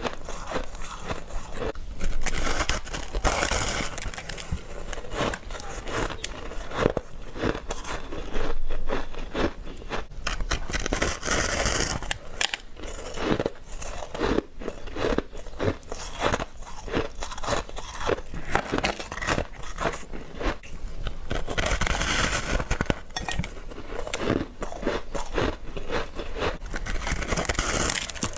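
Teeth biting into and crunching freezer frost and ice, close to the microphone: dense crackling crunches, with louder bites every few seconds.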